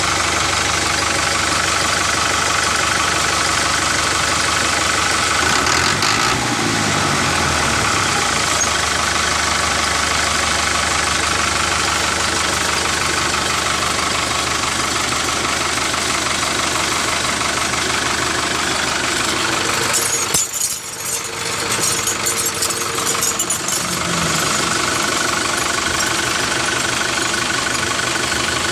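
Steady, tractor-like engine running sound, with a short dip and a spell of rattling clicks about twenty seconds in.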